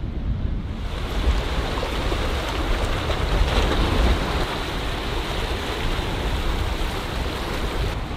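Strong wind buffeting the microphone, a steady low rumble, with the rushing hiss of ocean surf that swells about a second in.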